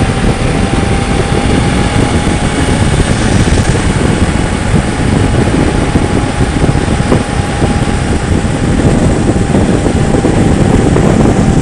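Motorcycle riding at highway speed: loud, steady wind rush over the rider's microphone, with engine and road noise underneath.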